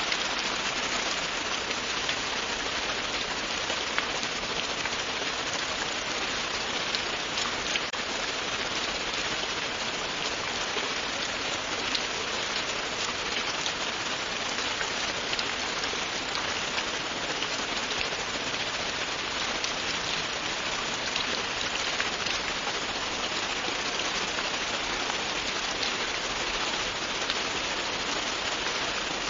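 Steady, continuous rain falling, an even hiss dense with fine drop impacts and no thunder.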